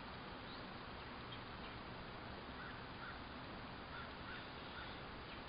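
Steady faint background hiss with a few faint, short bird chirps in the second half.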